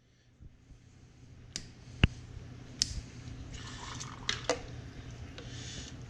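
A few single sharp clicks at irregular spacing, with some light rustling, over a low steady hum: zip ties being cut and pulled off a snowmobile engine.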